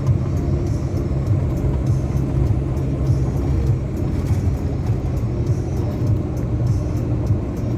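Steady low rumble of a car in motion: engine and tyre noise.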